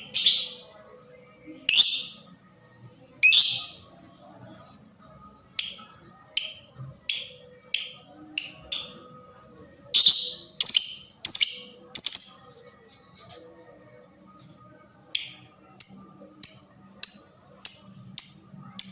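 Lovebird giving short, shrill, high-pitched calls in a series, at first a few seconds apart, then in quicker runs, ending in a steady string of about two calls a second.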